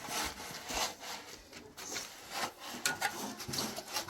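A hand tool scraping through gritty cement mortar in a few irregular rough strokes.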